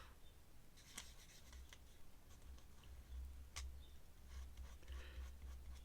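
Faint scratching of an ink pen drawing on paper, with a few sharp ticks.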